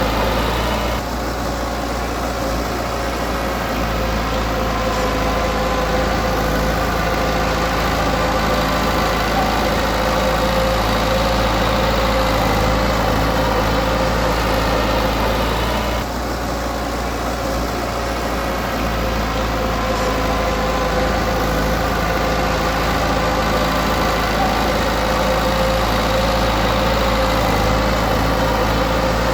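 Diesel engine of earthmoving machinery running steadily, with a steady pitch and a brief drop in level about a second in and again about halfway through.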